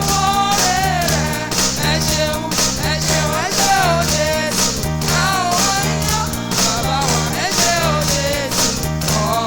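Live praise band music with a steady beat: cymbal ticks about twice a second, a repeating bass line, and a lead melody that slides between notes.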